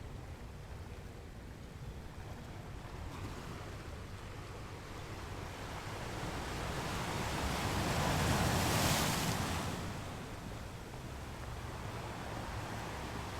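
Ocean surf breaking on the shore: a steady wash that swells into one louder breaking wave about eight to nine seconds in, then falls back.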